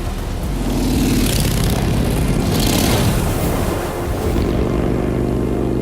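Motorcycle engine running, rising in pitch as it revs about half a second in, with a rushing hiss through the middle, then settling into a steady drone for the last seconds.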